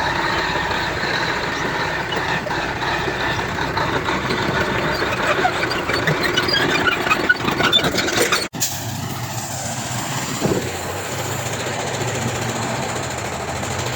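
Heavy diesel earthmoving machinery running, with scattered high squeaks and clinks over the engine. The sound drops out for an instant about eight seconds in and resumes as a steadier low engine drone.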